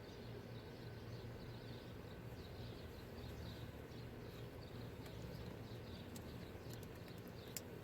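Small birds chirping over and over against a steady low outdoor hum, with a few sharp clicks near the end, the last one the loudest.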